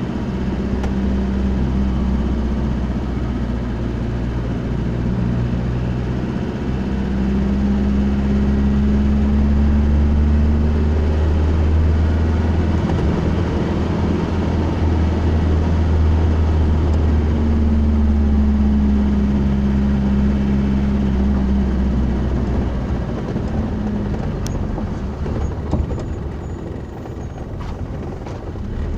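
Motor vehicle heard from the inside: a steady engine and road drone whose engine note swells twice as the revs change, with a few light clicks near the end.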